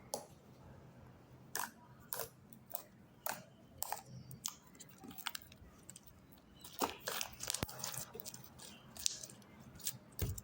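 Slime being worked by hand: irregular sticky clicks and crackles as it is squeezed and pulled apart, coming thicker in the last few seconds.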